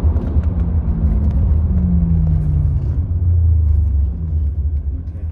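The Stage 2 BMW E90 M3's 4.0-litre V8, heard from inside the cabin as a deep, steady drone while driving. The engine note falls slowly as the revs come down, and the sound gets quieter about four seconds in.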